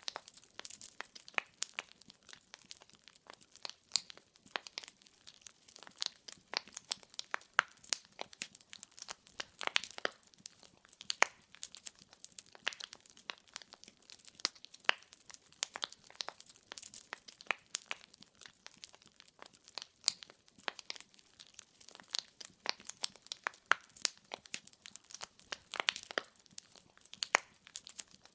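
Wood fire in a fireplace crackling, with irregular sharp pops and snaps from the burning logs over a low hiss.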